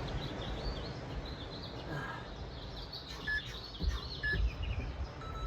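Small birds chirping repeatedly in high, short notes, with two brief clear whistled notes in the middle, over a steady background noise with low rumbling.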